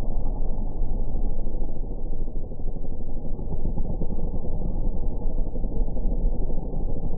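Motocross dirt-bike engines slowed down into a low, muffled rumble with nothing high-pitched in it.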